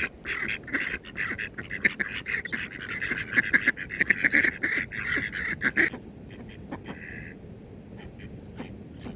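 Several ducks quacking in a fast, overlapping chatter that stops about six seconds in, followed by one short call a second later.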